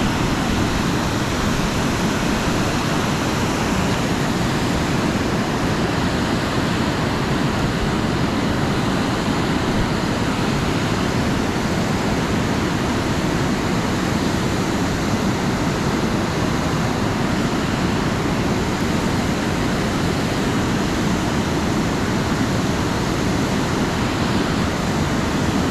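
Steady rush of fast-flowing creek water, an even, unbroken roar that neither swells nor fades.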